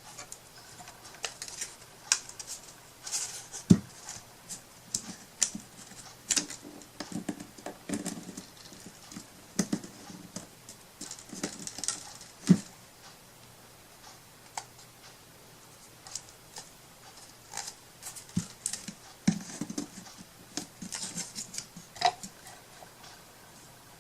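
Hands handling a wooden craft piece and materials on a tabletop: scattered light taps, clicks and rustles, with a few sharper knocks.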